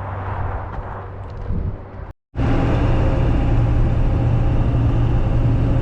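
A brief stretch of outdoor wind noise, then, after a cut, a pickup truck cruising steadily at highway speed, heard from inside the cab: a steady low engine hum under road and wind noise.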